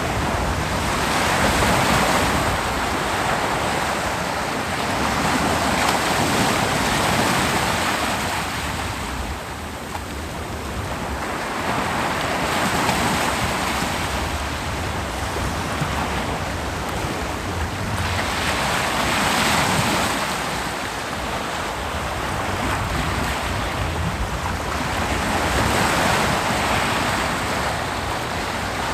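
Ocean waves breaking on a beach: a continuous wash of surf that swells and ebbs every five or six seconds.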